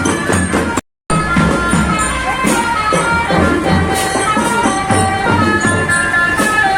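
School marching band playing: a melody of held notes over steady drum beats. The sound drops out completely for a split second about a second in.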